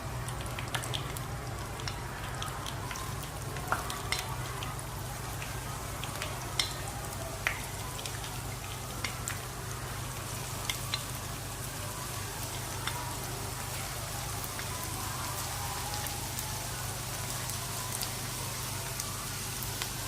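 Breaded fish balls deep-frying in a pan of oil: steady sizzling with scattered crackling pops, over a steady low hum.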